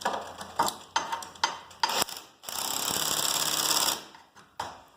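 A few sharp metal clicks, then an impact driver with a 9/16 deep socket hammering for about a second and a half as it runs a bolt tight. It is fastening a garage door's torsion springs to the center bearing bracket.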